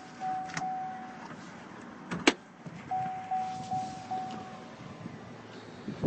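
Pickup truck's warning chime ringing in two runs of rapid repeated dings on one steady pitch, with a single sharp knock about two seconds in, the loudest sound.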